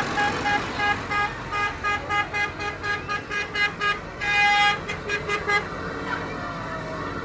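Vehicle horn tooted in a quick run of short beeps, about three a second, with one longer blast about four seconds in, then a few more beeps before it stops.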